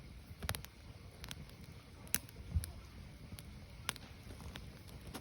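Firewood burning: irregular sharp crackles and pops, a few in these seconds, over a low steady rumble of the fire.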